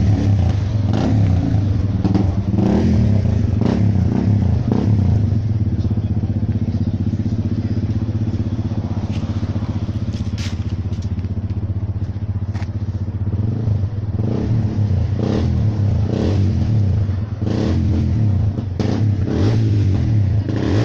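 A vehicle engine idling steadily with an even, low drone. Short knocks and clatters come and go over it.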